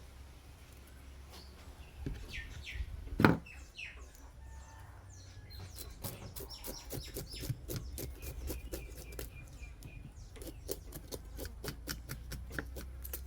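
Birds chirping in the background, a single knock about three seconds in, then from about six seconds on a fast run of short scraping strokes from a knife scaling the fish.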